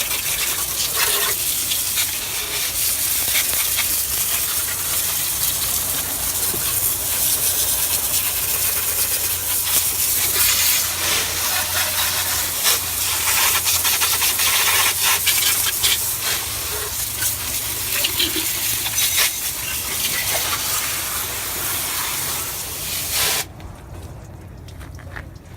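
Hose spraying water over an engine bay: a steady, loud hiss of spray with small splashy fluctuations that cuts off suddenly near the end when the nozzle is shut.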